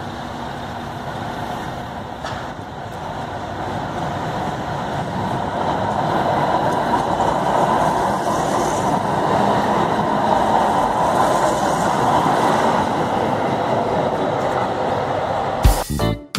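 Tyne & Wear Metro train passing close by, its rail and wheel noise growing louder through the first half and then staying loud. Music begins just before the end.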